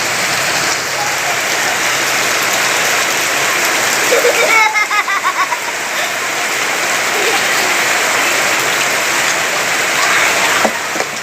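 Heavy rain falling steadily. About halfway through, a child's voice cries out briefly.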